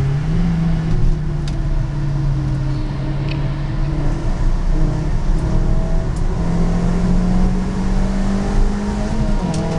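Suzuki Swift Stage 2's four-cylinder engine pulling hard under load, heard from inside the cabin with road and tyre noise. The engine note holds fairly steady, dipping and rising slightly a few times.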